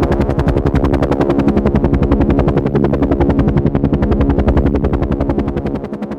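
Helicopter in flight: a rapid, even beat of the rotor blades over a steady engine hum, easing slightly in loudness near the end.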